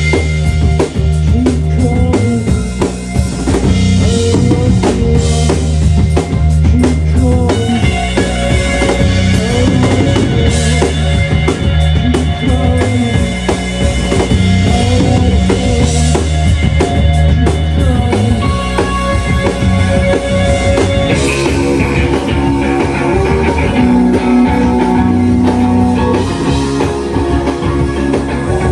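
A live rock band playing loudly: dense, sustained electric guitars with bass and a steady drum kit beat. The texture thickens about 21 seconds in.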